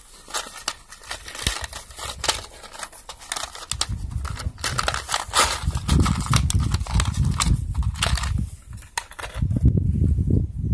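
Workbench handling noise: irregular clicks, knocks and rustling as small metal crimp lugs and tools are sorted and handled, with heavier low knocking and rumbling from about four seconds in.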